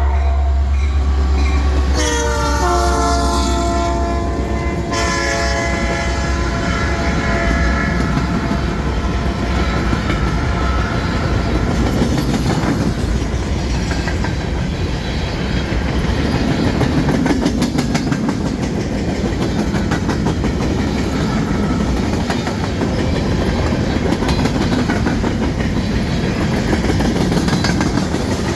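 Freight train led by two EMD SD60 diesel-electric locomotives passing, horn sounding over the rumble of the engines. The horn drops in pitch about two seconds in as the locomotives go by, and stops a few seconds later. Then empty freight cars roll past, wheels clicking over the rail joints.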